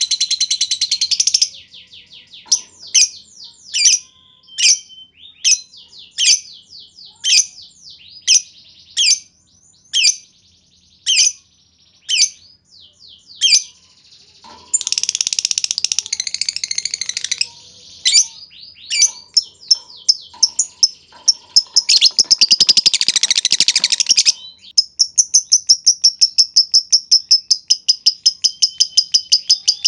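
Lovebird calling: bursts of fast high chattering, a run of single sharp chirps at about two a second, then a long rapid, even trill over the last five seconds, the drawn-out 'ngekek' call.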